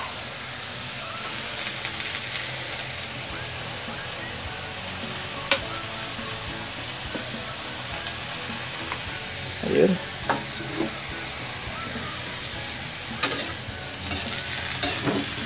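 String beans and pork sizzling as they fry in a hot wok while soy sauce is poured in. Occasional clicks and scrapes of a spatula against the wok come through, more of them near the end.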